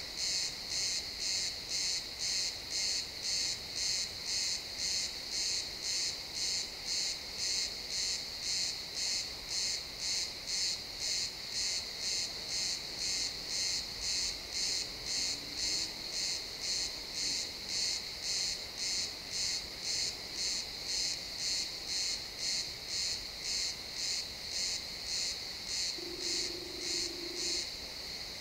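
Crickets chirping in an even, high-pitched rhythm of a little under two chirps a second, over a steady high insect trill.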